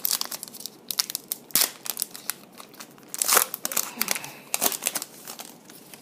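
Foil wrapper of a football trading-card pack crinkling as it is handled and opened: a run of sharp crackles and rustles, loudest about three and a half seconds in.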